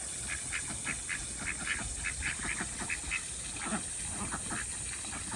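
A small flock of domestic ducks quacking softly, a quick string of short calls several a second, over a faint steady hiss.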